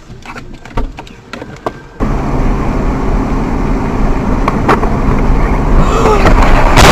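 Car road and engine noise from a dashcam. A few scattered clicks come first, then a louder steady driving rumble starts abruptly about two seconds in and builds. Near the end there is a sudden loud burst with shrill squeals that rise and fall in pitch.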